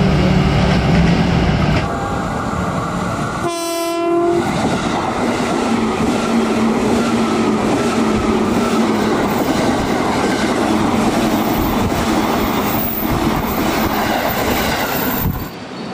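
Electric commuter train passing close by at speed, its wheels rumbling and clattering on the rails. A single train horn blast of about a second sounds roughly three and a half seconds in.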